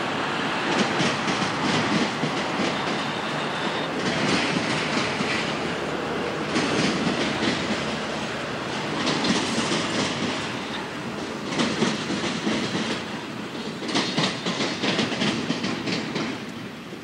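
Diesel freight locomotives passing at close range: engines running, with steel wheels clicking over the rail joints.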